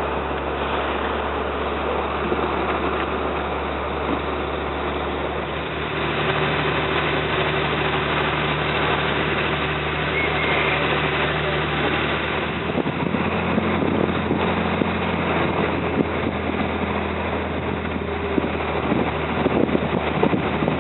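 A slow boat's engine running steadily, a constant low drone over dense wash and wind noise. Its note shifts slightly about six seconds in and again near thirteen.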